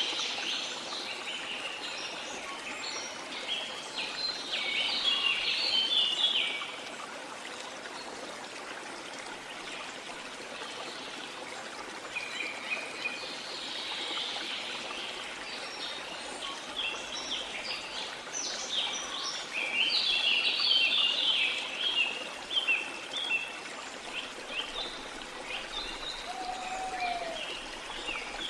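Small songbirds chirping and twittering in quick bursts over a steady wash of sea water, the birdsong loudest about five seconds in and again around the twenty-second mark.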